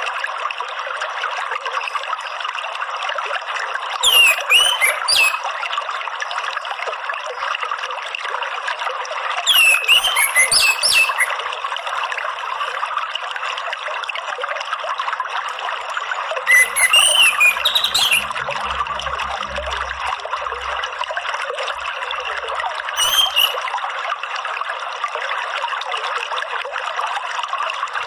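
Steady trickling, running water, with four short bursts of chirping bird song spread across it.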